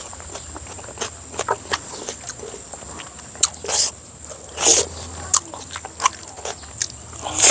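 A person eating close to the microphone: chewing, with wet mouth clicks and smacks and a few short louder bursts.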